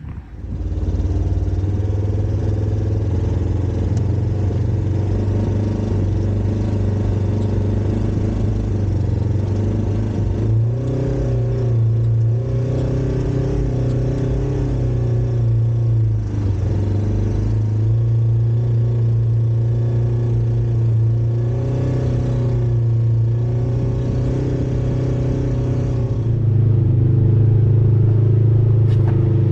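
Off-road vehicle engine running while driving, a steady drone whose pitch rises and falls several times with the throttle and grows louder near the end.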